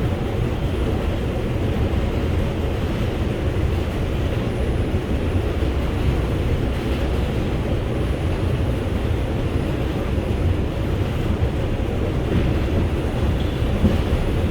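R142 subway car running at speed, heard from inside: a steady, even low rumble of wheels on the rails.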